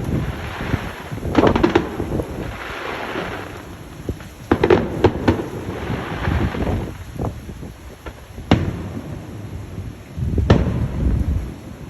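Fireworks going off: a string of booming bursts and sharp cracks, with hissing crackle between them, a sharp crack about two-thirds through and a deep boom near the end.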